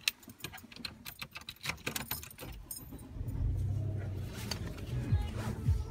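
Car keys jangling and clicking, then about three seconds in the car's engine starts and runs steadily at idle.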